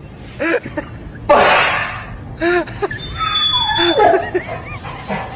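Short bursts of laughter, with a loud rushing burst of noise about a second in.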